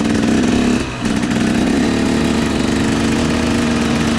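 Small dirt bike engine running at a steady, even speed, with a brief drop in revs about a second in.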